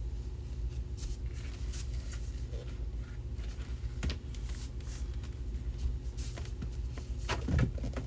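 Rustling and handling of small objects, with a knock about four seconds in and a louder bump near the end, over a steady low hum.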